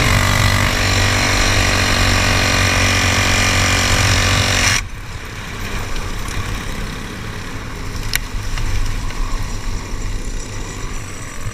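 Briggs & Stratton Animal kart engine running at a steady pitch, then cutting out abruptly about five seconds in. A quieter background rumble follows, with a single sharp click.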